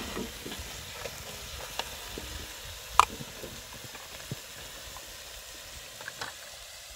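Food sizzling as it fries, a steady hiss with scattered small pops and one sharp click about three seconds in.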